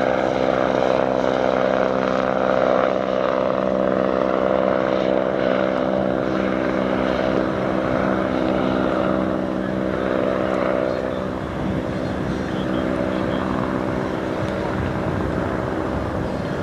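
Helicopter running as it lifts off and departs, a steady engine and rotor drone with a stack of even tones; the tones fade about eleven seconds in, leaving a broad rushing noise.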